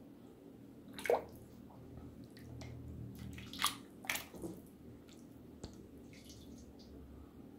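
Chicken soup ladled from a large stock pot into a bowl: liquid sloshing and dripping as the ladle dips and pours, with a few short splashes, the loudest about a second in and again around three and a half to four seconds in.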